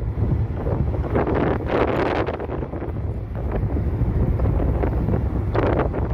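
Wind buffeting the microphone on a moving motorcycle, over the low, steady running of the bike's engine, with stronger gusts about a second in and again near the end.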